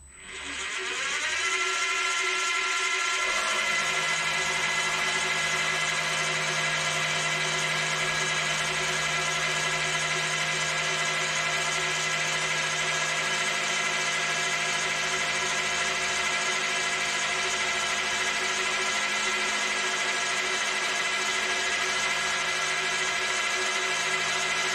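Vintage milling machine's motor and spindle switched on, whining up to speed over about two seconds, then running steadily with a constant whine.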